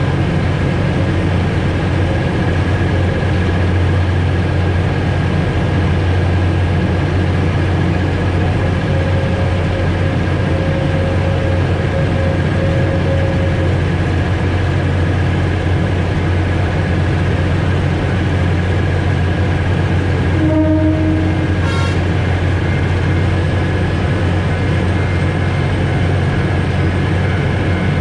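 Alishan Forest Railway narrow-gauge train heard from the cab: a steady low engine hum with running noise, and a brief toot about twenty seconds in.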